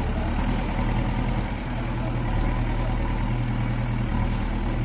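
JCB 3DX backhoe loader's diesel engine running steadily at low, even revs.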